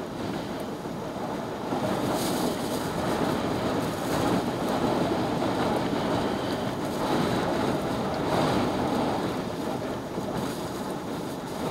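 Storm-force wind blowing in gusts that swell and ease every couple of seconds, buffeting the microphone.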